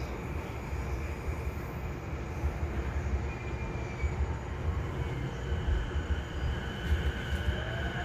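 JR East E233-1000 series electric train running, heard from inside the car: a steady low rumble of wheels on rail with faint whining from the Mitsubishi IGBT-VVVF traction inverter and motors. Near the end a thin rising whine begins as the motors speed up.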